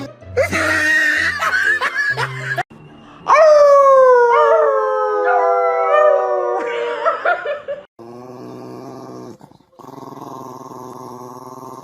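A dog howling: one long howl of about three seconds that slides slowly down in pitch, between shorter, rougher vocal sounds before it and a quieter, steady drawn-out sound after it.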